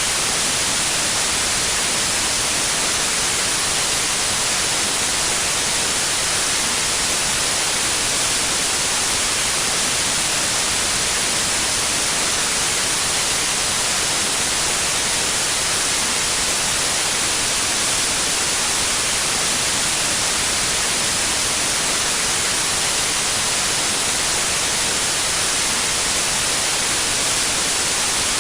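Steady synthetic white noise: an even, unchanging hiss, brightest in the upper range.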